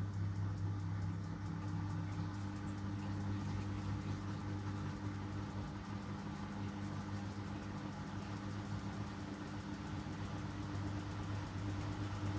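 Miele W1 front-loading washing machine spinning, a steady low motor hum with a constant whine at an even speed.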